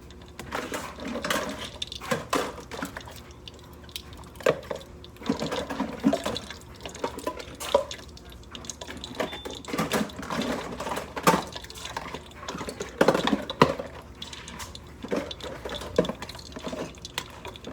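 Kitchen utensils and dishes clinking and knocking irregularly while food is being handled and cooked.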